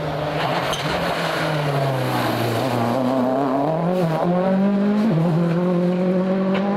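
Rally car engine under hard load on a gravel stage, its pitch sagging, then climbing again, with a sudden drop about five seconds in like a gear change or lift off the throttle.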